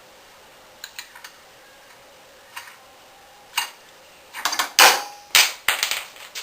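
Scattered light clicks of small hard objects, then a quick clatter of sharp knocks and clinks in the second half, as something falls and lands on a drinking glass.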